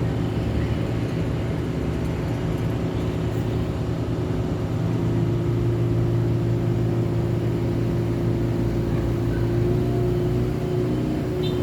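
City street traffic at night with a vehicle engine drone throughout, growing slightly louder about halfway. A brief high-pitched chirp comes near the end.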